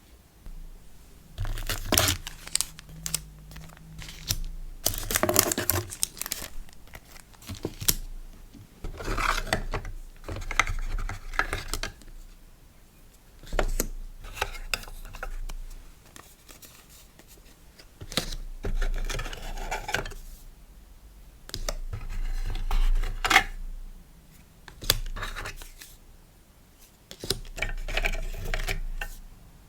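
Hand-packing sounds of paper and plastic packaging: crinkling, tearing and small taps and clicks, in irregular bursts a second or two long with short pauses between.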